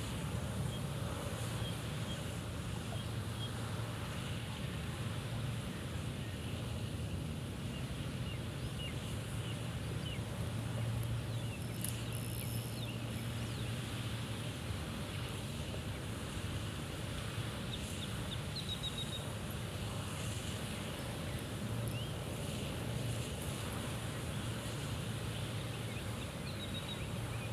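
Wind buffeting the microphone, a steady low rumble, with faint scattered bird chirps.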